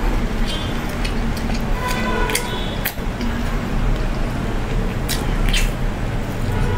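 Close-miked chewing of fried chicken, with a few wet mouth clicks and smacks, over a steady low hum.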